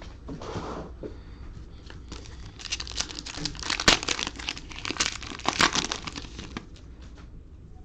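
Plastic cello-pack wrapper of football trading cards crinkling and tearing as it is opened by hand, with a short rustle just after the start and a denser run of crinkling in the middle.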